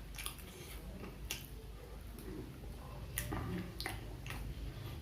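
Close-miked chewing of gorengan, Indonesian battered fried snacks: irregular sharp crunches and mouth clicks, about five in a few seconds.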